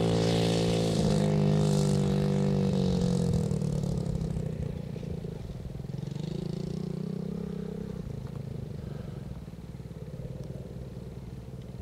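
Small dirt bike engine running in second gear, loud at first and then fading over several seconds as the bike moves off, with a brief rise in the engine note about six seconds in.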